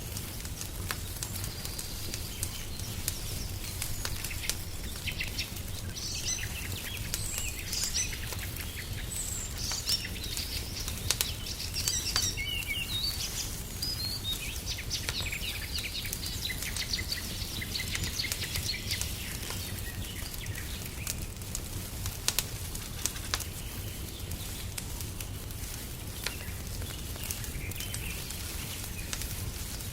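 Wood fire crackling in a fireplace, sharp pops and crackles over a low steady rumble. Small birds chirp and twitter over it from about five seconds in until about twenty seconds in.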